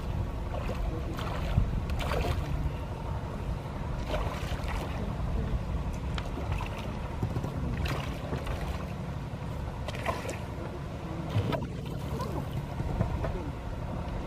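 Motorboat engine running steadily under way, with irregular slaps and splashes of water against the hull.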